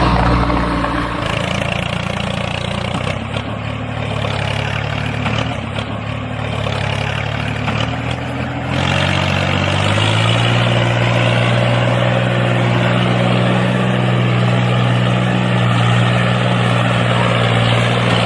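A small motor running with a steady hum; about nine seconds in its pitch steps up and it runs a little louder and steadier.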